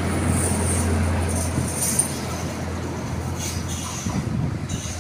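Diesel railcar pulling out of the station past the platform, its low engine hum and hissing wheel and rail noise slowly fading as it moves away.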